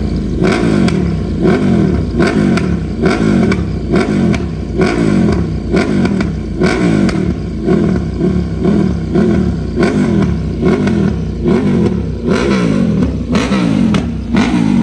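A sportbike engine revving hard, its pitch climbing in quick repeated rising sweeps.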